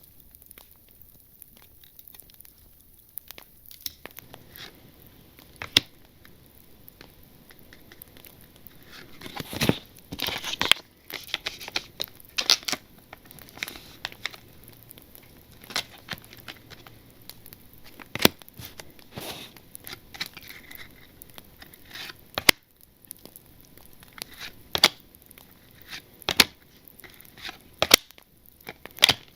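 Crinkling and tearing of a Panini Zenith football card pack wrapper as it is opened, with scattered sharp clicks and taps from handling the packs and cards.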